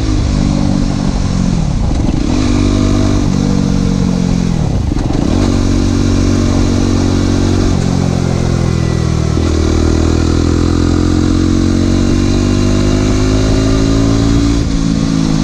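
Aprilia SX 125's single-cylinder engine through an Arrow exhaust with no dB killer, loud and raw. It pulls through the gears: the pitch drops sharply at a few shifts or throttle lifts, around 2, 5, 8 and 9½ seconds in, then climbs slowly in a long drawn-out pull.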